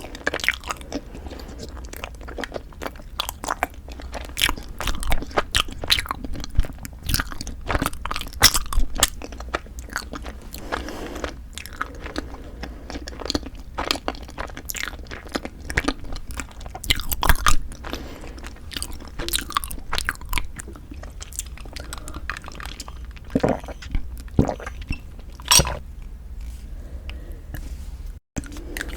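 Close-miked chewing and biting of Kiri cream cheese rice cake ice cream, full of sharp, irregular mouth clicks.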